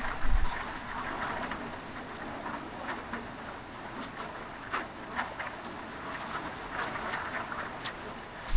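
Heavy rain falling steadily, with scattered sharp drop hits; a brief low thump shortly after the start.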